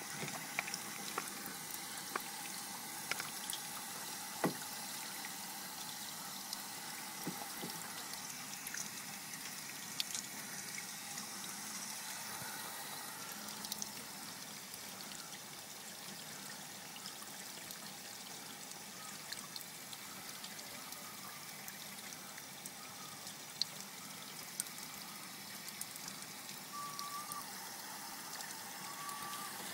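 Water leaking: a steady trickle of running water, with scattered small drips or ticks.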